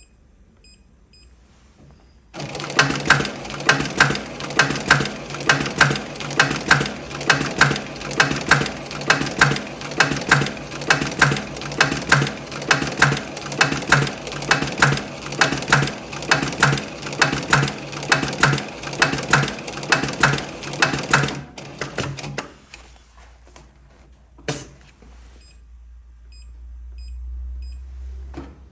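Industrial electronic pattern post-bed sewing machine stitching a programmed pattern with a single needle: rapid, even needle strokes with a regular pulsing about twice a second. The stitching starts a couple of seconds in and stops about three-quarters through, followed by a single click and a low hum that swells near the end.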